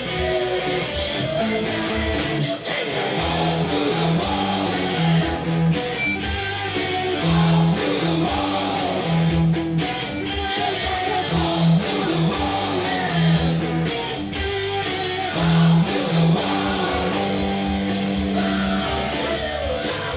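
Heavy metal music: overdriven electric mandola through a one-watt Marshall amp, over a backing track with steady bass notes and drums.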